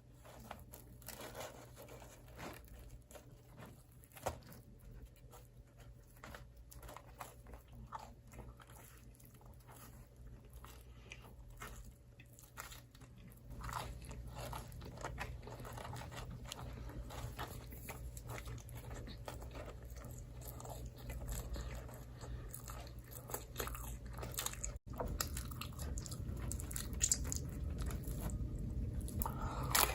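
Close-miked biting and chewing of crunchy microwave-oven pizza, with crackly crunches that get louder about halfway through, over a low steady hum.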